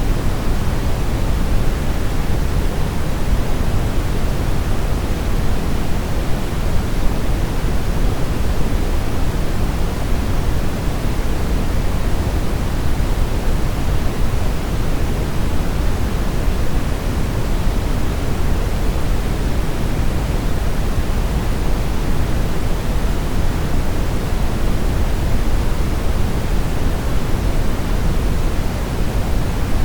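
Steady brown noise, a constant hiss-like rumble weighted toward the low end, with no changes or events.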